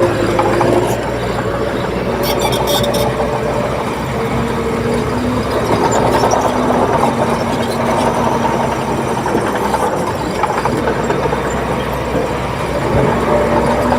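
Bulldozer diesel engine running continuously while working soil, its pitch stepping up and down several times.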